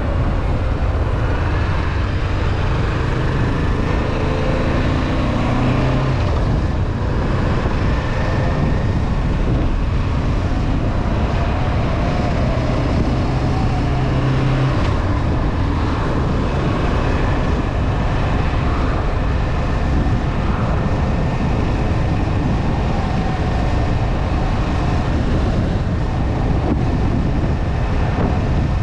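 Honda CB500F parallel-twin engine running under way, heard through heavy steady wind rush on the camera microphone.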